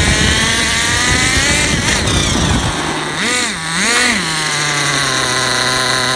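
Small nitro glow engine of a Redcat Racing Vortex SS RC vehicle running, blipped twice a little over three seconds in and then settling to a steady idle, with a steady high whine over it. The owner reports a screeching sound from it and does not know the cause.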